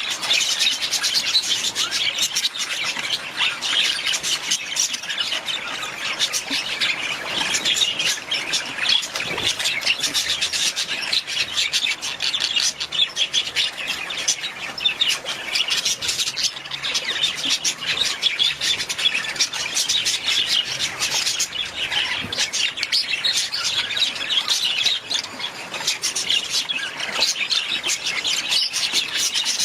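Many budgerigars chattering and chirping together without a break, a dense high-pitched warble.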